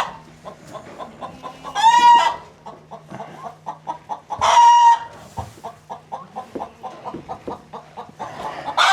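Farm animals calling: three loud, drawn-out calls, about two seconds in, near five seconds and at the end, over a steady run of short, quick notes.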